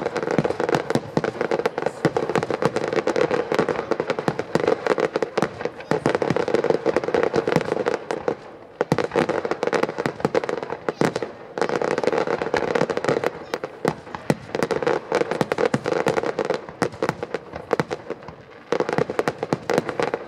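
Aerial display fireworks going off in a dense barrage of rapid, overlapping pops and bangs, thinning out briefly about nine seconds in and again near the end.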